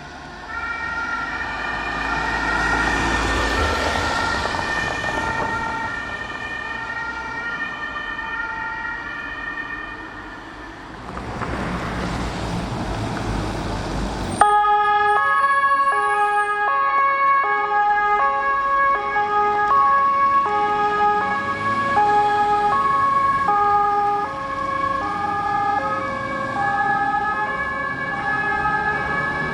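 German two-tone emergency-vehicle sirens alternating between two notes as vehicles drive past, with the vehicles' engines and tyres rising and fading twice. About halfway through the sound jumps abruptly to a louder, closer two-tone siren.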